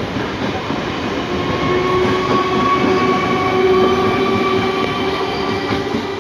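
An electric multiple unit local train rolls past, its wheels rumbling and clattering on the rails, with steady whining tones over the noise. The sound is loudest as the last coaches pass and eases near the end as the train moves away.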